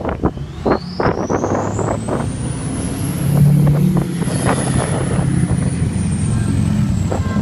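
Motorcycle engines running, loudest about three and a half seconds in. A high whine climbs over the first three seconds and then slowly sinks, and sharp knocks hit during the first couple of seconds.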